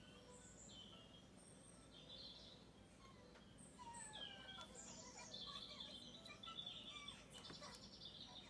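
Faint birdsong: birds chirping and calling, with short rapid trills about halfway through and again near the end.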